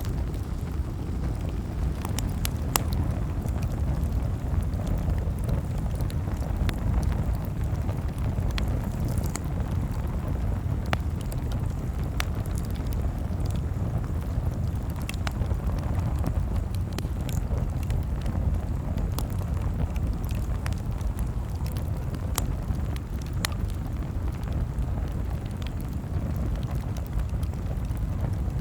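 Campfire crackling: sharp, irregular pops and snaps over a steady low rumble.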